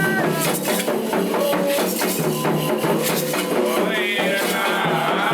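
Candomblé ritual music: fast, dense hand percussion with rattling shakers, and voices over it.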